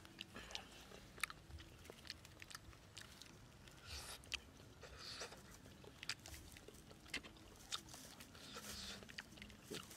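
Faint mouth sounds of a person eating a cooked goose egg: chewing with irregular soft smacks and clicks.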